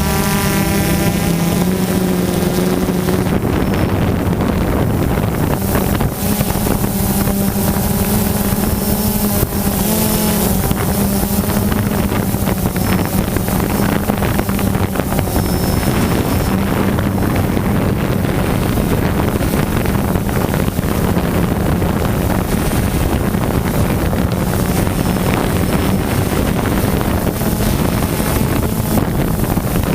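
DJI Phantom quadcopter's motors and propellers buzzing steadily, picked up by the GoPro mounted on the drone, with wind rushing over the microphone. The pitch wavers briefly about ten seconds in.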